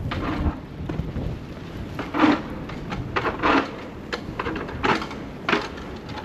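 Snowstorm street ambience: a steady low rumble and wind noise, broken by a few short, louder scraping bursts about two seconds in and again around three and a half and five seconds in.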